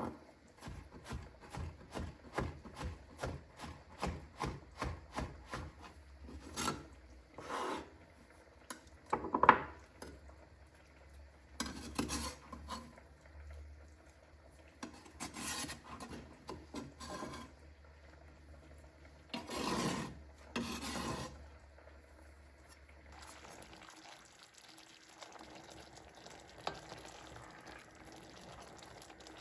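Knife slicing mortadella on a wooden cutting board: a quick, even run of short rasping strokes, then slower, scattered cuts and scrapes, with one sharper knock about nine seconds in.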